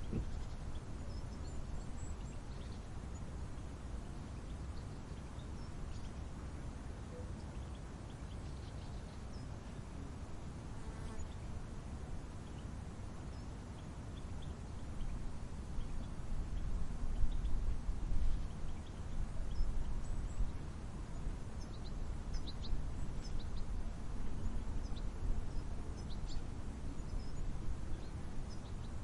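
Mountain wind making a low rumble that grows gustier about halfway through, with faint, short bird chirps here and there, more of them near the end.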